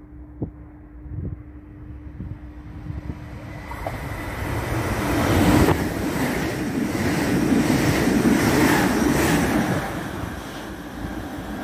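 Double-deck passenger train passing through the station at speed without stopping. A steady low hum comes first, then the rumble and rush of air build from about four seconds in, are loudest as the carriages go by, and ease off as it pulls away.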